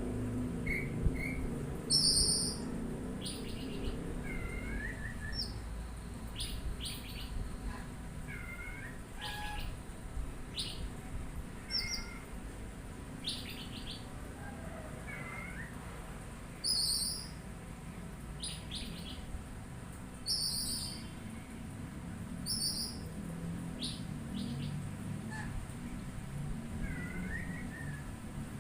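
Oriental magpie-robin (kacer) calling: a run of short, sharp high chirps and brief whistled phrases, irregularly spaced, over a low steady hum.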